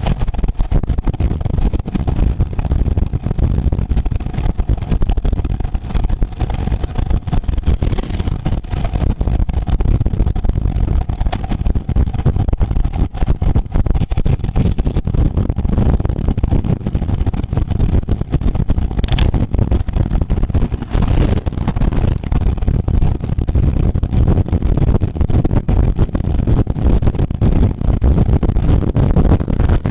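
Loud, gusty wind rush on the microphone of a camera riding along in a road bicycle race, mixed with road noise.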